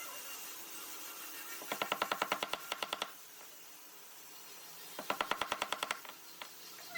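Two runs of rapid, evenly spaced clicking, about ten clicks a second, each lasting about a second, with a short gap of quiet between them.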